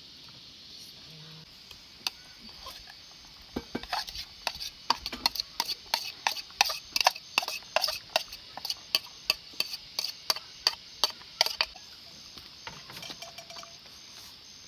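A spoon clinking and scraping against a pot or bowl as food is dished up: a run of sharp clinks, two or three a second, starting about four seconds in and stopping a few seconds before the end.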